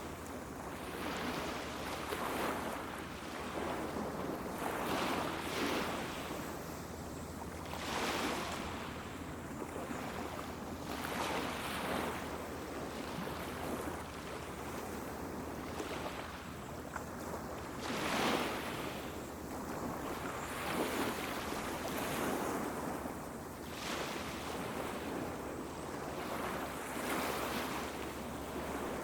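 Sea waves washing onto a beach, each one swelling into a rush and drawing back every two to three seconds.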